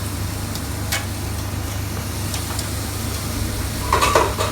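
Steady low hum of kitchen machinery in a pizza shop kitchen, with a few light clicks and a brief louder sound near the end.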